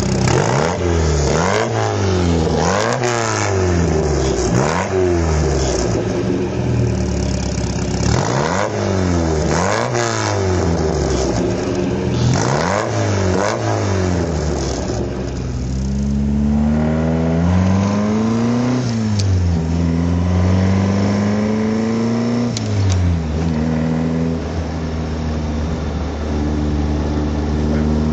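1960 Triumph TR3A's two-litre four-cylinder engine being blipped: in the first half, quick revs in clusters, the pitch shooting up and dropping straight back. After that come slower, gentler revs, and from about two-thirds of the way in it settles into a steady idle.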